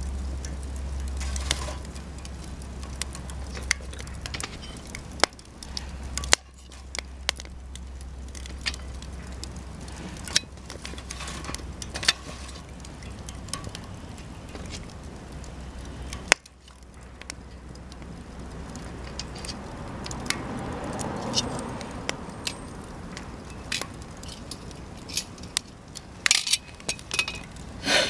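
Cedar offcuts burning in a wood fire, crackling with irregular sharp pops and snaps, a few of them louder than the rest.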